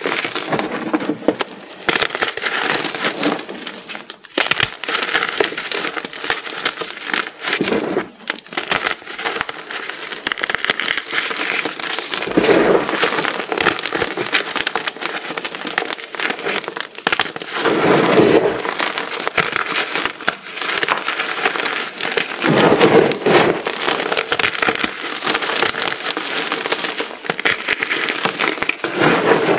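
Pieces of dry, hardened reformed gym chalk being crushed by hand in a mass, a continuous dense crunching and crackling of many small pieces breaking and grinding into powder, with heavier crunches about every five seconds from the middle on.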